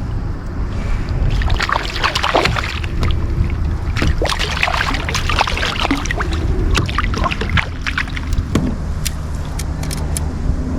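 Irregular splashing, clicks and knocks on and around a kayak, over a steady low rumble.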